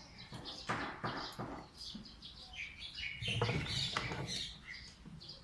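Birds chirping repeatedly in the background, with knocks and clatter from tools and airsoft gun parts being handled on a workbench. The loudest clatter comes about three to four seconds in.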